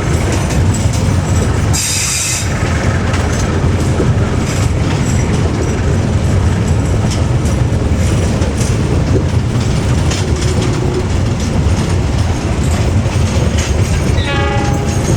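Train running on the rails: a steady rumble with wheels clacking over the rail joints, a short hiss about two seconds in, and a brief squeal near the end.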